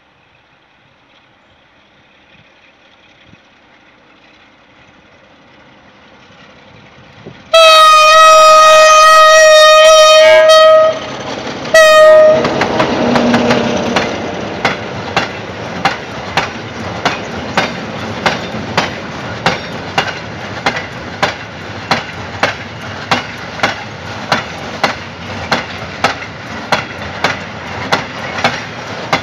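Two Sulzer-engined CFR class 060-DA diesel-electric locomotives approaching with a rising rumble, sounding one long horn blast and then a short one, and passing loudly. Their freight wagons follow, clacking over the rail joints in an even rhythm of about three clacks every two seconds.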